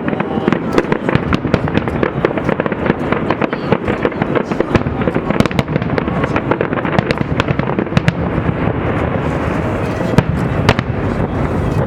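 Fireworks display: a dense, rapid crackle of many small shell bursts, thinning out near the end, where two louder single bangs stand out.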